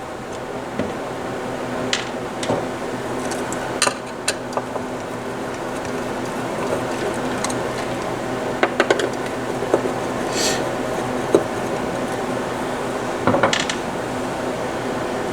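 Scattered clicks, taps and clinks of small plastic and metal parts and hand tools being handled while a turntable is taken apart, over a steady low hum.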